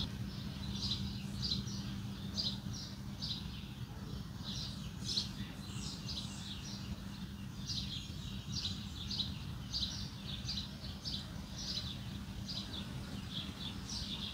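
Small birds chirping over and over: short, high chirps, a few a second at uneven intervals, over a steady low rumble and hum.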